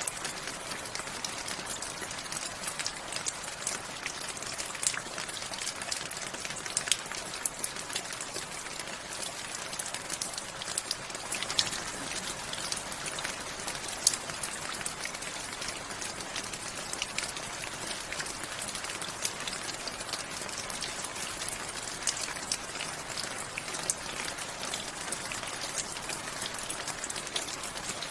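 Steady rain with many individual drops ticking and pattering on a hard surface, one sharper drop about halfway through.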